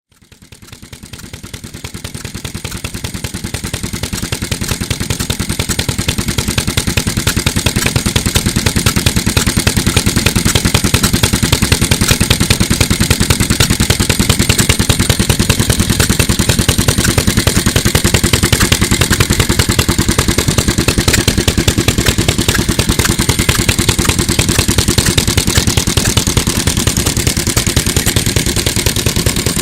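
Mitsubishi Katsura Type J1 single-cylinder 398 cc stationary engine running steadily with a rapid, even firing beat. The sound fades in over the first few seconds.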